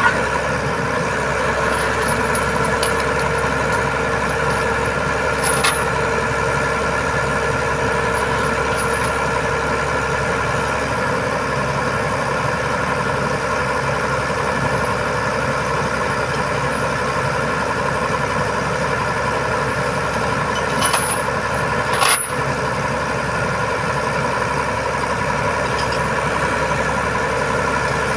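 Diesel engine of a boom truck running steadily at idle-like speed. A few short, sharp clicks or knocks come through, one about six seconds in and a pair about three-quarters of the way through.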